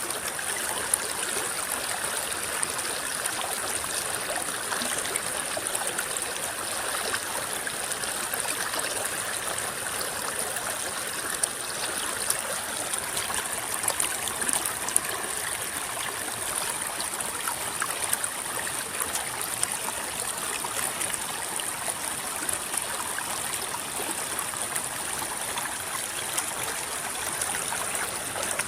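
A river flowing, its water rippling and babbling steadily, with a thin steady high-pitched hiss above it.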